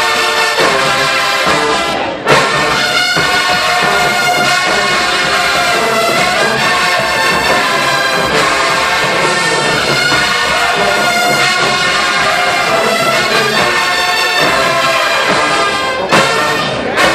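Marching band brass section playing loud, with many held notes. The band cuts off briefly about two seconds in and comes back in with a sharp hit.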